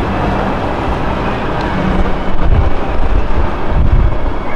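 Wind buffeting the microphone outdoors: a loud, even rush with heavy low rumbling gusts about halfway through and again near the end, over a faint low hum in the first couple of seconds.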